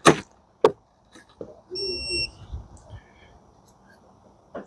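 Two sharp clicks, then a single steady, high electronic beep lasting about half a second near the middle, followed by a few fainter short beeps and another click near the end.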